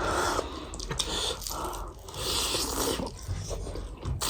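A person eating: irregular biting and chewing of food, with a few crunches.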